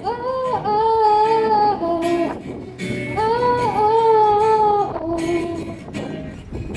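A female voice sings two long, held phrases over guitar accompaniment, with the guitar carrying on alone near the end.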